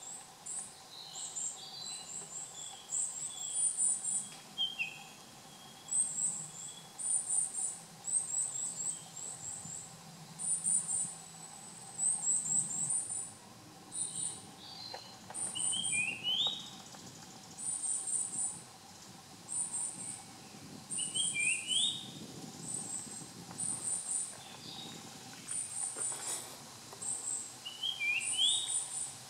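Japanese grosbeak singing: short phrases of clear, rising whistled notes, a handful of times, several seconds apart. Over the whole stretch, a series of high, quick chirps in little clusters repeats about once a second.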